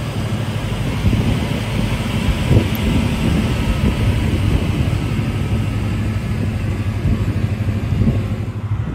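Winter MRS-155 track-feed multi-rip saw with its 55 kW main motor running, a steady, loud machine noise with a low rumble and a higher band of blade noise.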